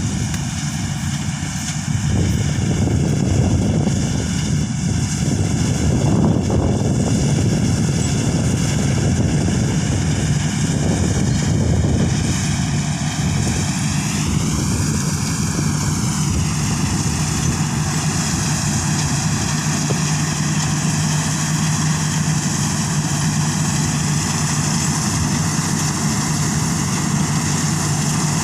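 Thai Charoen Kan Chang combine harvester's engine running steadily, its note briefly rising and falling about halfway through.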